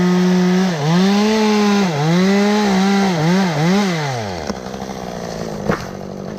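Chainsaw running at full throttle, its pitch dipping sharply several times as it bogs under load in the cut, then the revs falling away about four and a half seconds in.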